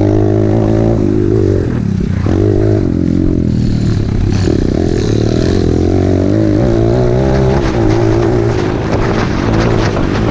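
Small single-cylinder four-stroke YCF dirt bike engine being ridden hard, its pitch rising and falling repeatedly as the throttle is opened and closed.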